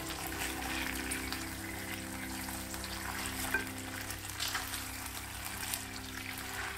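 Hamburger patties sizzling in bubbling teriyaki sauce in a non-stick frying pan, with a few short scrapes and taps of a spatula as they are flipped and turned in the sauce.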